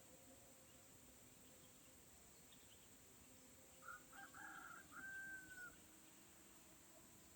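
A rooster crowing once, faintly, about four seconds in: a choppy start and then a held final note, over a low background hiss.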